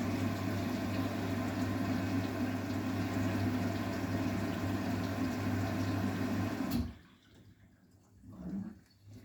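Arçelik 9120M front-loading washing machine running a wash, a steady motor hum with water sloshing in the drum, cutting off suddenly about seven seconds in; near the end a brief faint sound breaks the quiet.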